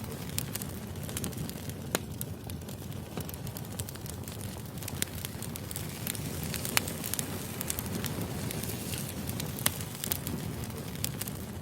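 Wood fire burning, with a steady low rumble and irregular sharp crackles and pops of the burning logs, a few of them louder.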